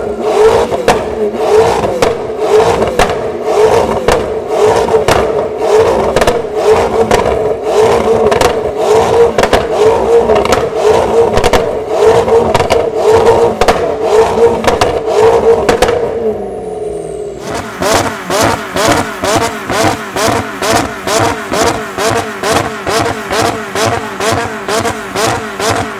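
Modified car engine revved hard and held at a steady high pitch, pulsing rapidly and evenly. About sixteen seconds in it drops off briefly, then it pulses again about three times a second.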